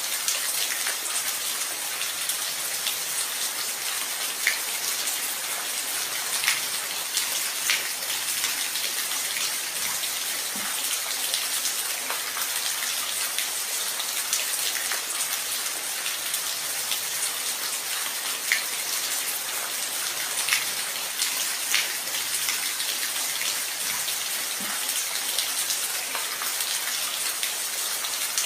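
Steady rain falling, an even hiss with scattered louder drops landing close by every second or two.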